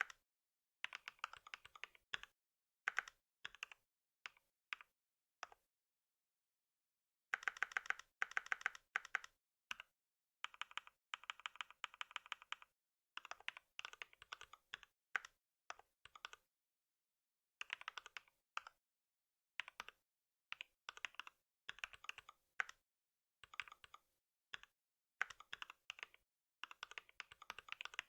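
Typing on a computer keyboard: quick runs of key clicks in bursts, broken by short pauses, with a silent gap of nearly two seconds about six seconds in.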